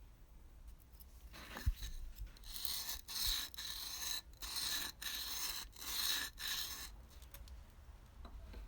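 Hand abrading on a part of an old metal oil lamp, as in sanding or filing during rust removal: about seven scraping strokes with short pauses between them. The strokes start about one and a half seconds in and stop about a second before the end.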